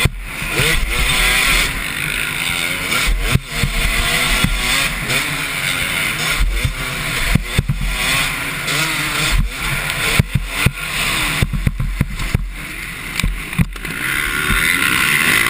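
Several motocross bikes racing on the track, their engines revving up and down in overlapping rising and falling whines, with frequent short sharp cracks through it.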